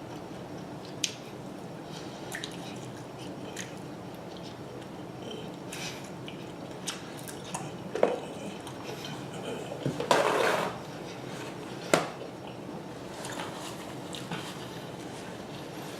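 Close-miked eating: wet mouth clicks and smacks from someone chewing sauced chicken wings, sparse and irregular, with one louder, longer noisy scuffle about ten seconds in.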